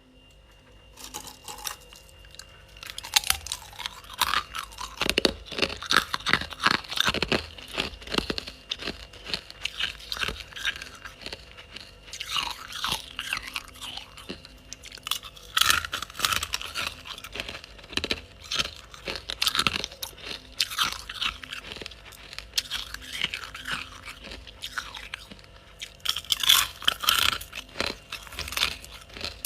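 Ice being bitten and chewed close to the microphone: crunching and cracking in repeated bouts of bites, with short pauses between mouthfuls.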